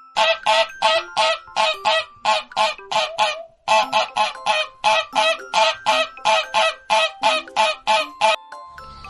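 Farm fowl calling in a rapid series of loud, evenly repeated calls, about three to four a second, with a brief break a few seconds in, stopping shortly before the end.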